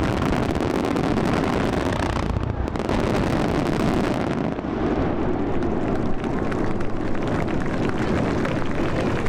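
Fireworks finale barrage: many shells bursting in quick succession, their booms and crackles overlapping into a continuous rumble.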